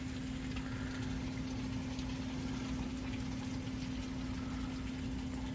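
Heavy rain pouring down in a storm, a steady even wash of noise, with a constant low hum running underneath.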